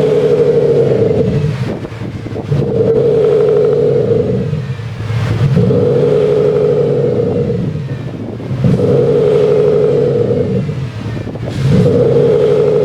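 Jeep Cherokee revved five times, about every three seconds, each rev rising and falling back, its exhaust note augmented by a Soribak GT500 active exhaust-sound generator.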